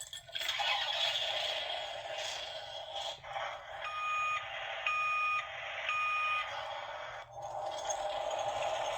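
Sound-book effect of a construction crane at work: a steady mechanical whirring hiss. In the middle come three warning beeps, one a second, each about half a second long.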